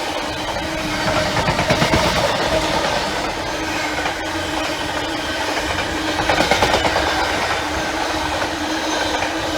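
A train passing on the main line: a steady rumble of wheels on rail with a steady hum, and louder clattering of wheels over the rail joints twice, about two seconds in and again about six seconds in.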